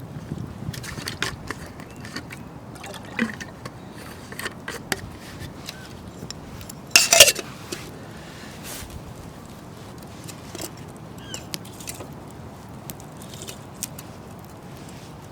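Liquid sounds with scattered small clicks and knocks, and one louder clatter about seven seconds in.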